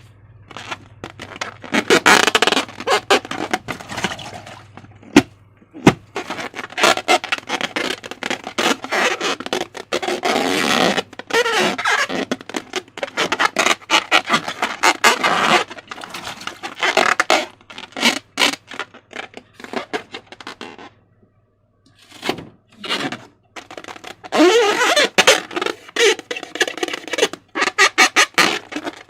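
Slime being squished and stretched by hand, with wet squelches and dense runs of small pops and crackles as air pockets burst. It comes in bursts, with a short pause about two-thirds of the way through.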